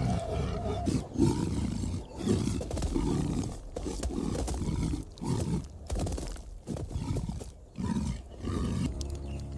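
Lions growling and snarling in a run of short rough bursts, about one a second.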